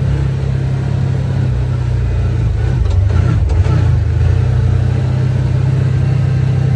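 A vehicle engine running as it drives along: a steady low drone that wavers briefly about three seconds in, with a couple of faint clicks.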